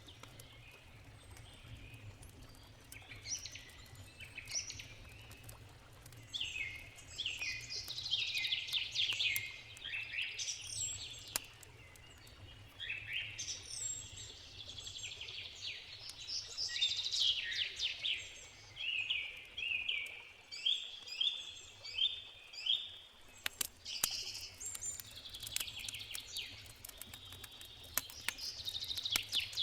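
Songbirds singing in quick runs of descending chirps, phrase after phrase, loudest in the middle of the stretch. Sharp pops of a crackling campfire break in now and then over a steady low rush of river water.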